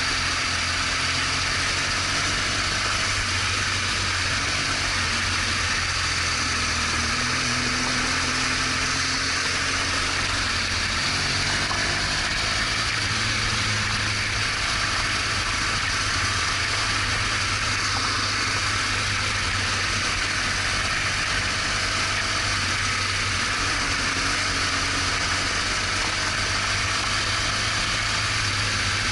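BMW R1200GS Adventure's boxer-twin engine running at a steady cruise, its pitch drifting slightly, under a steady rush of wind and road noise.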